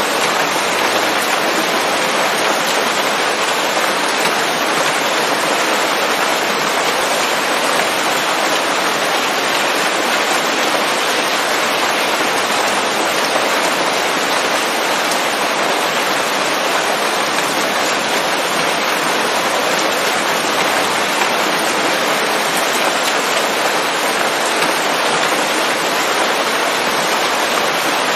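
Steady rain falling on leaves, a dense even patter with no distinct drops standing out and no thunder.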